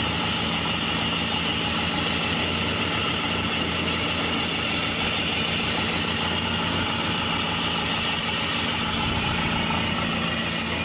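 2001 PT Cruiser engine idling with the AC compressor engaged and the drive belt squealing steadily, a sign the owner takes for a failed compressor dragging on the belt.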